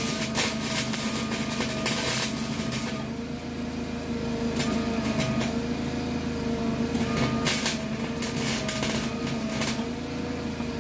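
Small 120-volt wire-feed welder arc-welding rusty sheet-metal floor at a low setting, the arc crackling in several bursts separated by short pauses over a steady machine hum. The thin rusted metal is burning through rather than taking the weld.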